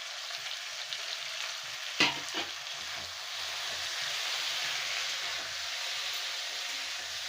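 Onion, tomatoes and herbs sizzling steadily in hot oil in a pan as they are fried and stirred for chutney, with a sharp knock about two seconds in.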